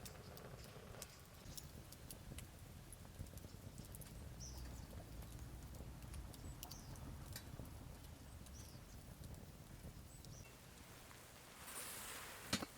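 Scattered light clicks and taps over a steady low outdoor rumble, ending in a short louder burst of rustling noise with a sharp click.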